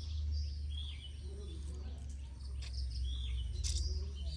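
Small birds chirping, short arched calls repeated every second or so, over a steady low rumble that is the loudest sound.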